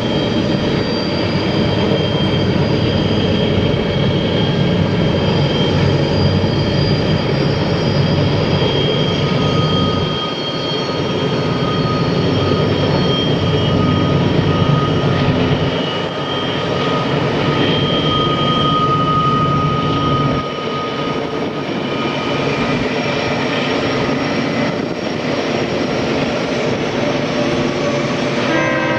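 Train running with a steady heavy rumble and faint high steady tones over it, the low rumble easing briefly a few times.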